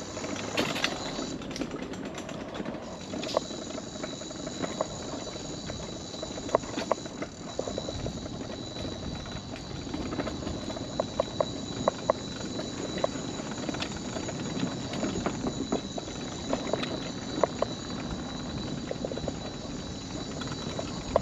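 Mobility scooter wheels rolling along a wooden boardwalk: a steady rumble broken by irregular sharp clacks as the tyres cross the plank joints, over a steady high whine.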